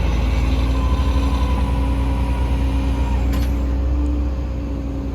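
Tow truck engine running with a steady low rumble and a thin steady whine over it, a short metallic clank about three seconds in, the level easing slightly near the end.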